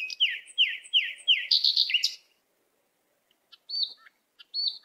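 A bird singing: a quick run of about five down-slurred whistled notes in the first two seconds, then a pause and a few short high chirps near the end.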